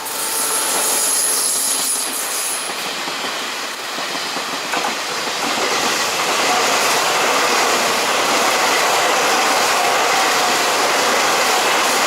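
Taiwan Railways passenger trains meeting and running past at speed: a steady rush of wheels on rails, with a high thin whine in the first few seconds. The noise swells again about halfway through and holds.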